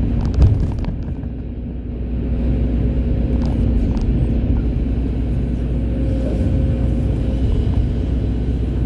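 Hydraulic excavator's diesel engine running steadily with a low drone, a few short knocks about half a second in, and the engine note building again about two seconds in.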